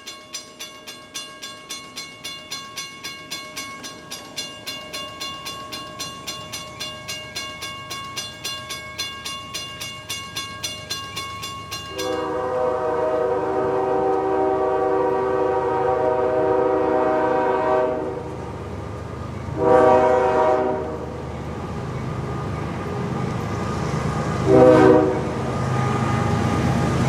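Crossing warning bell ringing steadily at about four strikes a second, then a freight locomotive's air horn sounding one long blast of about six seconds and two short blasts as the train approaches. The low rumble of the train builds near the end.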